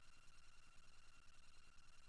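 Near silence: a faint steady hiss with a thin high hum, and no distinct sound events.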